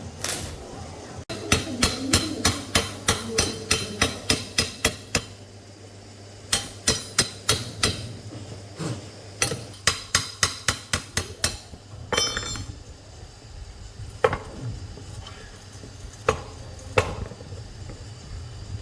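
Hammer blows on metal in quick runs of about four strikes a second, each with a short ring. Near the end come a few single, separate blows.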